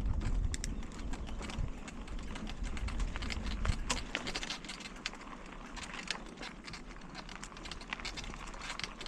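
Bicycle ridden along a park path, rattling and clicking irregularly with many small sharp ticks, over a low rumble that is heaviest in the first second or so.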